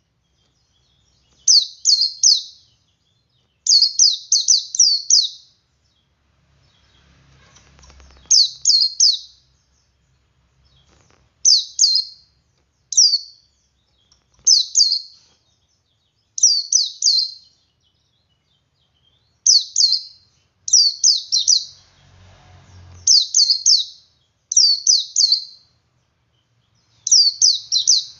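Male white-eye (pleci) singing ngalas: short phrases of three to five quick, high, falling notes, repeated every second or two with brief pauses. A faint low rumble sits under the song twice.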